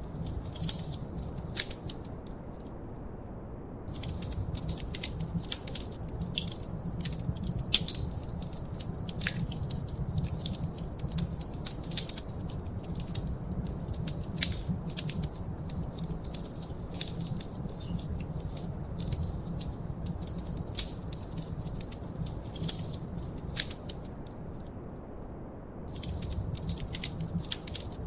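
Wood fire crackling in a fireplace, with frequent sharp pops and snaps over a steady low rumble. The crackle briefly thins out twice, about three seconds in and near the end.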